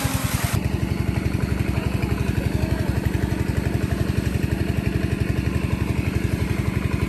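A small engine running steadily with an even, rapid chug, like a single-cylinder motor at idle. A rushing, water-like hiss under it cuts off suddenly about half a second in.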